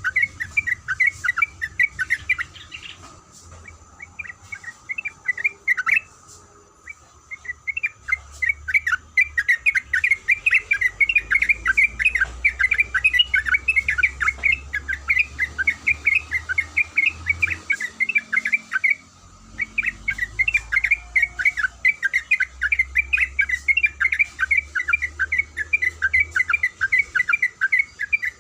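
Yellow-vented bulbul (trucuk) singing in long runs of rapid, bubbly chattering notes. The song thins out for several seconds about three seconds in and breaks off briefly near nineteen seconds before resuming.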